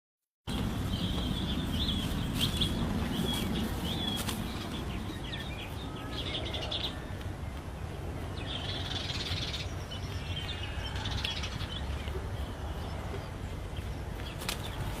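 Birds chirping, short high chirps and trills coming in clusters again and again, over a steady low rumble.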